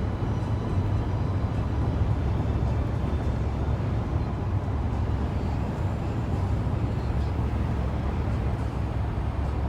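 Car driving at highway speed, heard from inside the cabin: a steady low rumble of tyre and road noise with the engine underneath.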